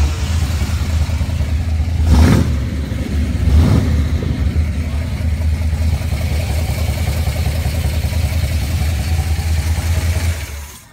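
Restored 1976 Ford Bronco engine running at idle just after starting, steady and fairly loud. It rises briefly twice, about two and four seconds in, and cuts out near the end.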